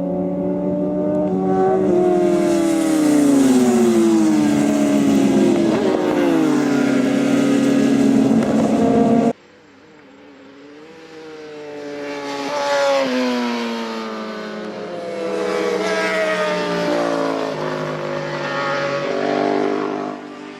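Racing motorcycle engines at high revs passing by, their pitch climbing and dropping with gear changes. The sound cuts off abruptly about nine seconds in, then more bikes approach, pass and fade.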